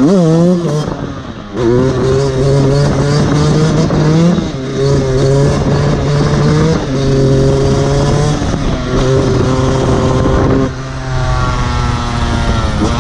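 Fantic XE 125 enduro motorcycle engine under hard throttle, revving up and dropping at a gear change near the start. It then holds high, fairly steady revs with small surges, eases off about ten seconds in, and revs up again near the end.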